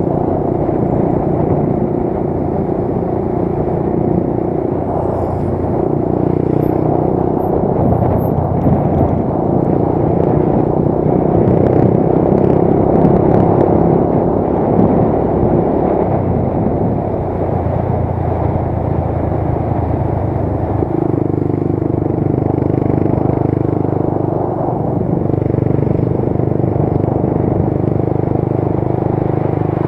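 Motorcycle engine running steadily under way, its pitch shifting a few times as the speed changes.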